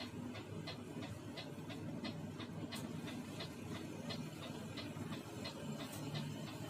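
Inside the cabin of a Mercedes-Benz O500RS 1836 coach on the move: a steady low engine drone, with a sharp, regular ticking about three times a second over it.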